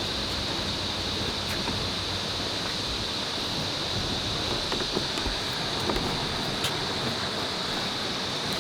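Steady rushing of river water, with a constant high-pitched hiss over it.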